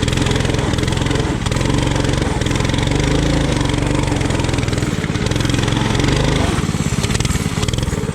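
Coleman RT200 mini bike's single-cylinder engine running hard under load as the bike pushes through deep mud and water, its speed rising and falling with the throttle.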